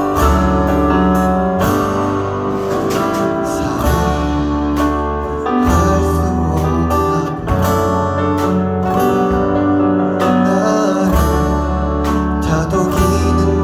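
Live band playing a pop ballad: strummed acoustic guitar over sustained bass notes that change every second or two.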